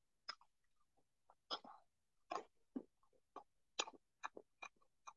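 Faint, irregular wet clicks and smacks of a mouth chewing a bite of raw nopal (prickly pear cactus pad), coming a little faster near the end.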